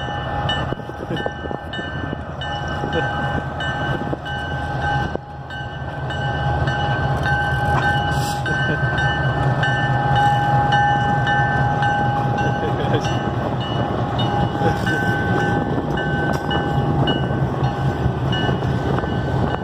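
Circus train's railroad cars rolling past, a steady rumble with high thin tones held over it, louder from about six seconds in.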